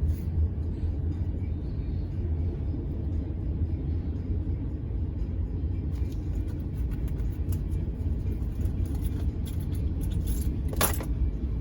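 Steady low rumble of a moving vehicle heard from inside, with scattered light ticks from about halfway through and a short sharp noise near the end.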